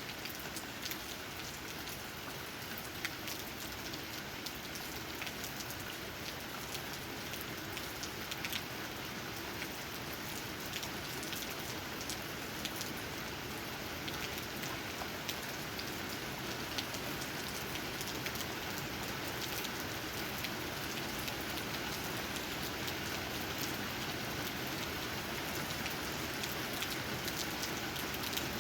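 Steady rain falling, with many individual raindrops tapping on leaves in quick, irregular clicks over an even hiss.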